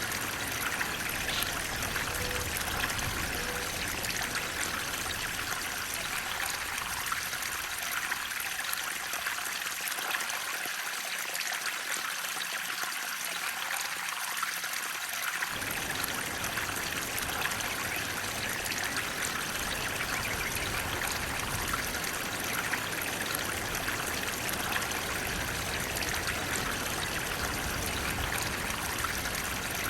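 Water flowing and splashing steadily with an even rushing hiss. The low rumble underneath fades away for several seconds and comes back suddenly about halfway through.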